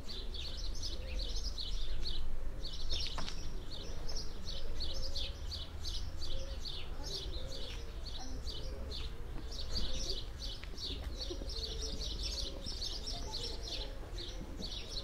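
Small birds chirping, quick high twitters several a second that go on almost without a break, over a low steady rumble.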